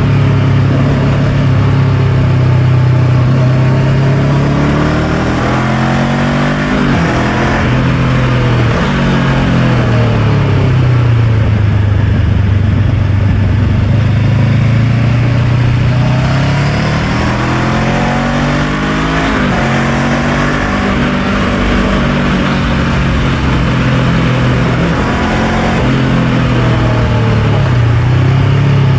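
Honda NX500's parallel-twin engine heard from the bike while riding. The engine note rises and falls with the throttle and drops sharply twice, about 7 and 19 seconds in, over steady wind and road rush.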